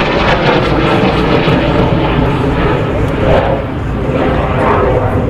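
Loud, steady jet noise from the Turkish Stars' Canadair NF-5 fighters, small twin-turbojet jets, flying past during their display.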